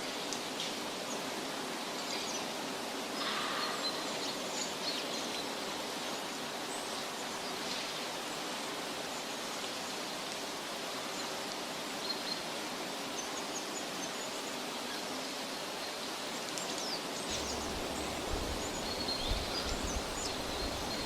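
Steady outdoor forest ambience, an even rushing noise like a stream or wind in leaves, with a few faint high chirps. A low rumble comes in near the end.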